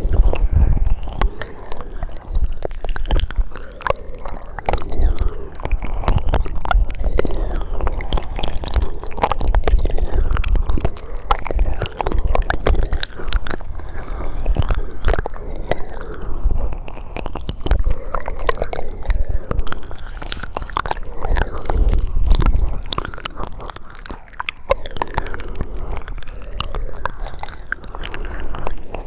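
ASMR mouth sounds made close to the microphone: a dense, continuous run of short mouth clicks and smacks.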